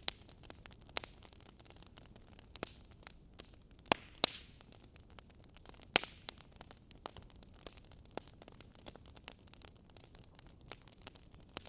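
Wood fire crackling: irregular small snaps over a faint steady hiss, with a few louder pops around the middle.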